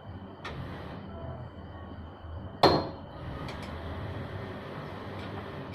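One loud, sharp knock about two and a half seconds in, with a lighter tap near the start, from tool work on a motorcycle during repair, over a low steady hum.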